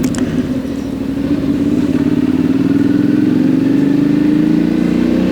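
Suzuki V-Strom 650's V-twin engine under way on the road. Its note dips slightly about a second in, then rises steadily as the bike accelerates.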